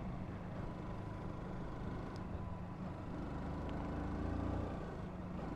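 Honda CBR125's small single-cylinder four-stroke engine running under way, its pitch and loudness rising a little about three seconds in as it picks up speed, over a steady rushing noise.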